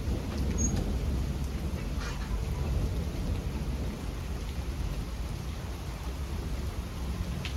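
Steady rain falling, with a low rolling rumble of thunder underneath that swells in the first few seconds and then eases.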